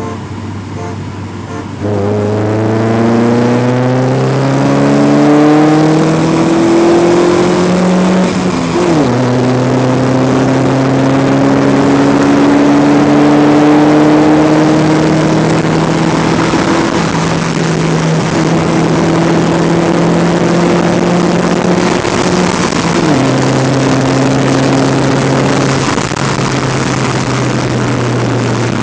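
Cadillac 4.9-litre V8 with an aftermarket exhaust accelerating through the gears: the engine note jumps up about two seconds in, climbs slowly, and drops sharply at each upshift, three times.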